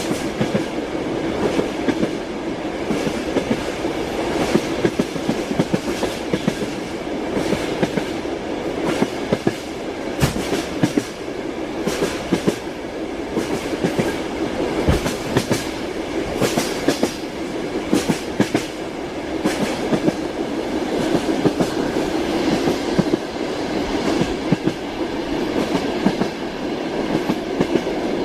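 Moving train: wheels clattering over rail joints in irregular knocks over a steady rumble of the carriage running on the track.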